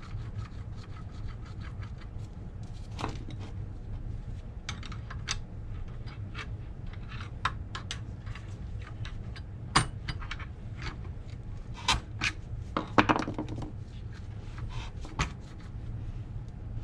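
Metal parts of a Rolls-Royce Phantom III front brake backing plate assembly clinking, tapping and scraping as they are worked loose by hand, with a few sharper knocks in the second half.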